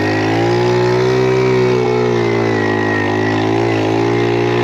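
Small pit bike engine running steadily at fairly high revs under way, easing off briefly about two seconds in and again near the end.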